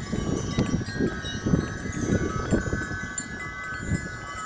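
Wind chimes ringing continuously in strong wind, many overlapping tones sounding together, over the low rumble of gusts, which eases near the end.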